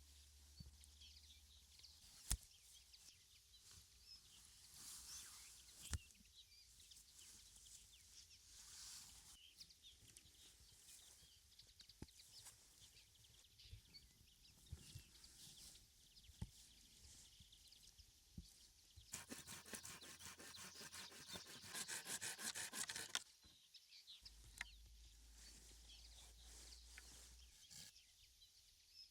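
Faint outdoor ambience with a few sharp knocks. About two-thirds of the way in, there are a few seconds of fast, evenly repeated strokes.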